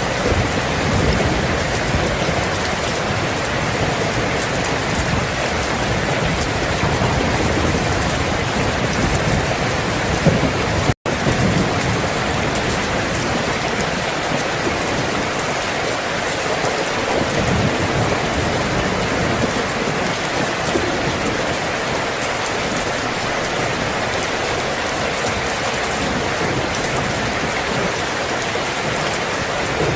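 Steady rain falling, an even, unbroken wash of noise. It cuts out for an instant about eleven seconds in, then resumes unchanged.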